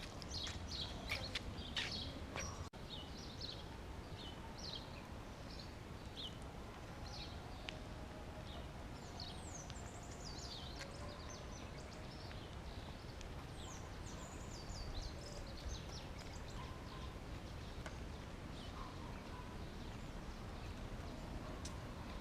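Wild birds calling: many short, high chirps and quick down-slurred notes from several birds, over a steady low background hiss. A few sharp ticks come in the first two seconds.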